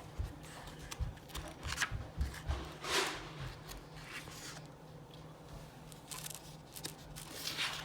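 A paper picture book being handled and its pages turned: soft paper rustles and light clicks, low handling thumps in the first couple of seconds, and a page swish about three seconds in and again near the end.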